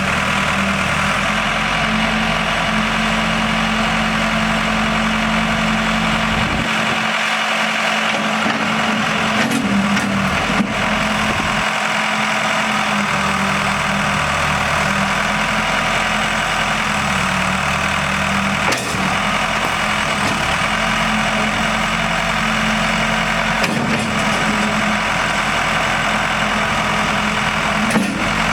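Diesel engine of a 1998 Case 580 Super L loader backhoe running steadily at an even speed, with a few brief knocks.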